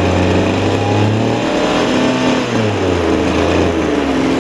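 Small 26.5cc two-stroke engine, running without a muffler, revved up from a low idle and let fall back, then settling to a lower speed near the end.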